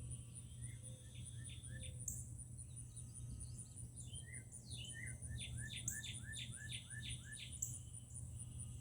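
A songbird singing phrases of quick repeated notes, with a longer run of about eight notes in the second half, over a steady, high, pulsing insect trill.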